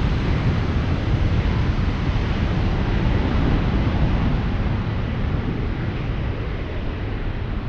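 Airliner's engine rumble, slowly fading and growing duller as the aircraft moves away.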